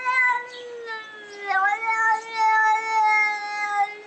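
A cat yowling in one long drawn-out call whose pitch dips briefly about a second and a half in and then carries on.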